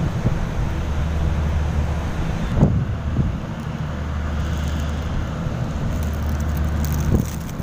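A steady low engine drone with a noisy rush over it, and two brief louder bumps, about two and a half seconds in and near the end.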